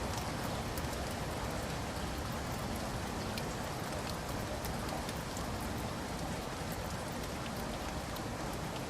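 Steady rainfall, with a constant hiss and many small drops pattering on a surface.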